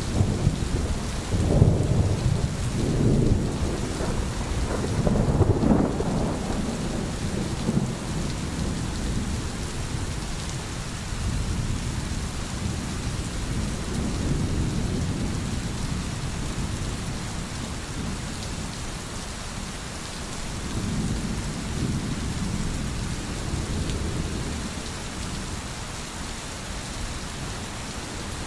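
Steady heavy rain with rolling thunder. The rumbles are loudest in the first six seconds, and softer ones swell again later.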